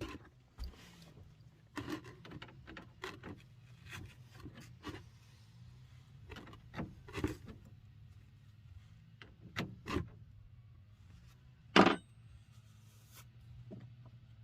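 Scattered handling sounds, knocks, clicks and scrapes, as a bucket and tools are set under the gas tank, with one sharp knock about twelve seconds in, over a faint steady low hum.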